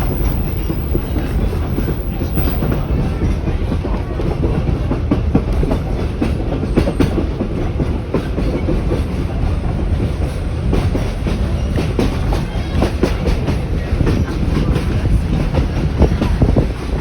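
Heritage passenger train carriage running along the track: a steady, loud rumble of wheels on rail with irregular clacks and knocks over rail joints.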